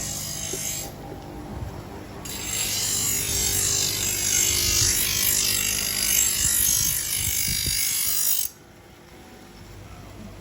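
Steel knife blade being ground on a power grinder: a steady hissing grind over a low motor hum. A short pass ends about a second in, and a longer one starts about two seconds in and cuts off suddenly past eight seconds.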